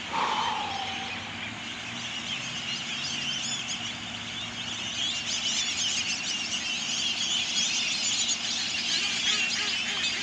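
Dense chorus of many birds chirping and twittering, growing louder about halfway through. A single call falling in pitch stands out at the very start.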